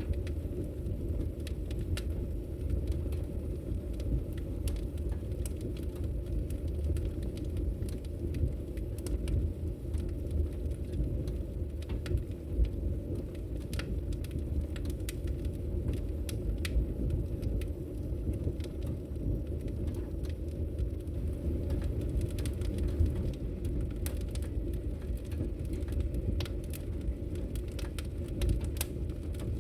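Wood fire crackling, with frequent sharp pops and snaps of burning logs over a steady low rumble.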